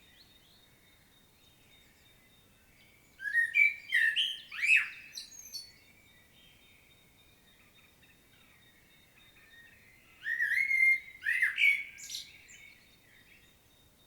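Common blackbird singing: two phrases about six seconds apart, each a short run of sliding, fluting notes that ends in higher, squeakier notes.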